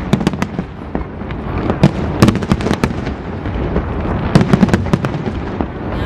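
Fireworks display: rapid cracks and bangs of aerial shells bursting, coming in dense clusters about two seconds in and again a little past four seconds.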